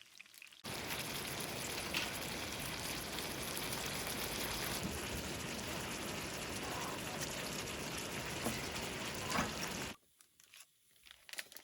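Food sizzling in a hot pan: a steady crackling hiss that starts abruptly about a second in and cuts off near the end, with a few sharper pops.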